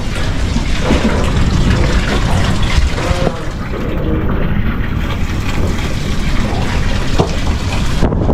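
Strong gusty wind buffeting the microphone: a loud, steady rush heaviest in the low end.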